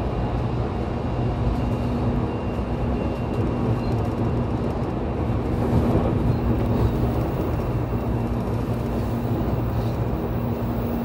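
Running noise inside the motor car of a JR Kyushu 813 series electric train at speed: a steady hum from the traction motors and gears over the rumble of wheels on rail.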